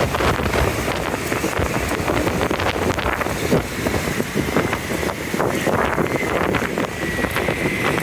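Wind buffeting the microphone over the low rumble of a running vehicle, as heard while riding, with a faint steady whine in the second half.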